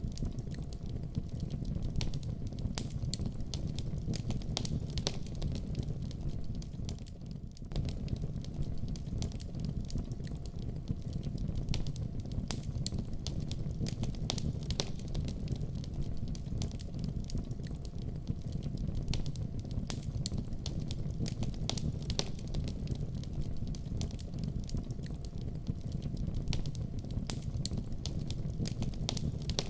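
Wood fire burning in a fireplace: a steady low rumble of flames with frequent sharp crackles and pops, briefly softer about seven seconds in.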